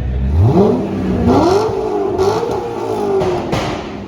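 A modified car's engine is revved hard: the pitch climbs fast, holds high and wavering for a few seconds, then slowly sinks. Several sharp exhaust pops crack out during the rev.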